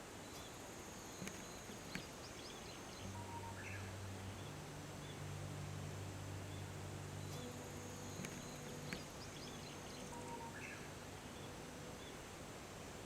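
Outdoor nature ambience: a steady background hiss with a thin high whine, a few faint short bird-like chirps and light clicks. About three seconds in, soft held low notes of background music fade in underneath and shift pitch a few times.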